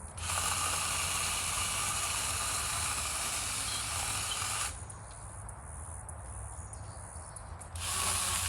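Cordless mini chainsaw cutting into wood in two bursts: a long cut of about four and a half seconds, then a short one near the end, with the saw's lower running sound between them.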